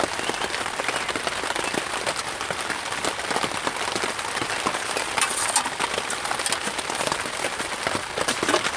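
Rain falling on a tarp tent: a steady hiss filled with many separate drop ticks.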